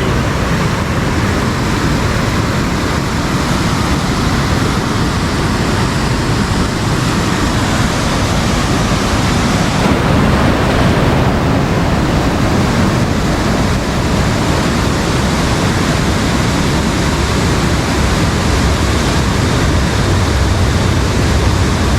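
Loud, steady rush of a fast-flowing river swollen after rain.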